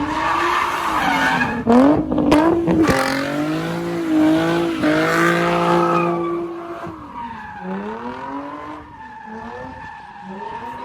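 Car engine revving hard, its pitch sweeping up and down over several seconds, with tyres squealing and skidding. It is loudest in the first six seconds and eases off after about seven seconds in.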